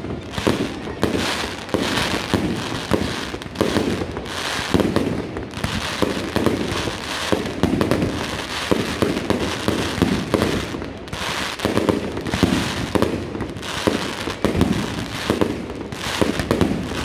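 Fireworks in a dense, continuous barrage: bangs from bursting shells overlap with crackling, several a second, with no pause.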